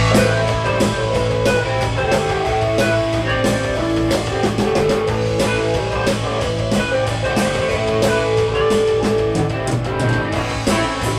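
A rock band comes in all at once and plays the instrumental intro of a song: guitar over a steady bass line and a drum kit keeping a regular beat.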